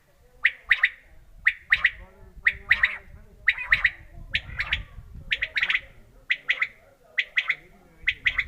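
Quail calling: a repeated phrase of two or three quick, sharp high notes, given about once a second, nine times over.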